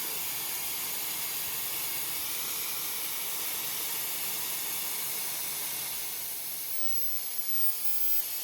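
Techmeri Ultra Fast hair dryer running steadily, a continuous airy hiss of rushing air.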